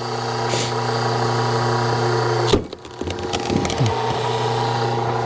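Engine of a hydraulic log splitter running steadily while a tough larch round is pushed onto the wedge; about two and a half seconds in the wood gives way with a sharp crack, followed by several smaller cracks and creaks as the split opens.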